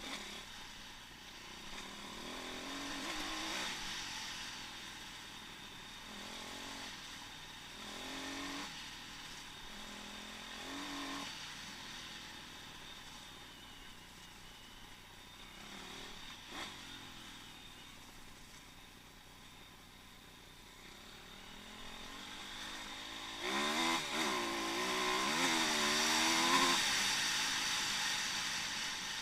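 Pit bike engine revving up and easing off in several short surges as the bike is ridden, then a longer, louder run of throttle near the end with the pitch wavering up and down.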